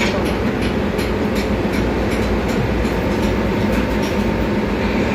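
Steady, loud din of ship's engine-room machinery running, with light metallic clicks and knocks scattered through it.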